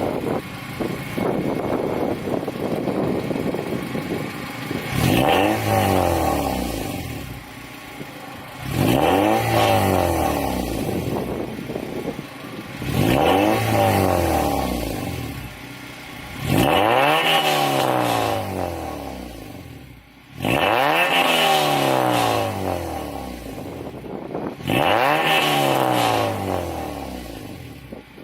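Acura RSX's K20A3 inline-four, breathing through a Skunk2 Alpha race header and Ktuned 3-inch oval catback exhaust, revved in place over and over. It idles for the first few seconds, then makes about six quick revs, roughly one every four seconds, each climbing in pitch and dropping back toward idle.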